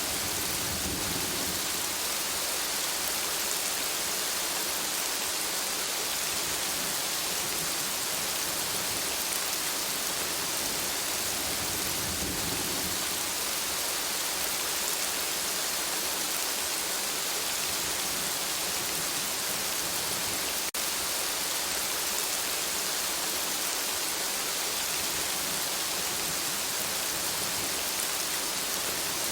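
Steady rain falling, a dense even hiss of many drops, with two low rumbling swells underneath. There is a momentary break in the sound about two-thirds of the way through.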